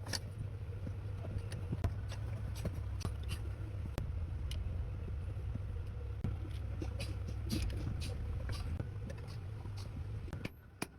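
A steady low motor hum with many scattered clicks and taps over it. The hum stops about ten and a half seconds in.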